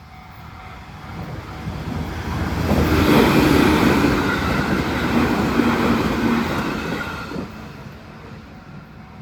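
A JR Tokaido Main Line train passing over a level crossing: the rumble and rolling wheel noise build up over the first few seconds, stay loud for about four seconds, then die away.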